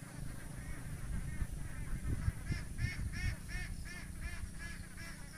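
A bird calling in a rapid series of short, arched notes, about three a second, loudest in the middle and fading near the end.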